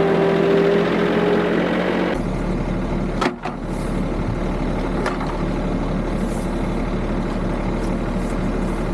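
Subcompact tractor engine running steadily while it handles a three-point attachment. Its sound changes abruptly about two seconds in and dips for a moment a little after three seconds.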